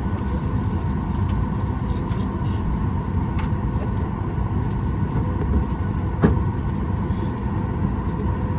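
Steady drone inside the cabin of a Boeing 737 MAX 8 waiting before departure, with constant humming tones from the aircraft's air and ventilation systems. A sharp click about six seconds in, and a fainter one earlier.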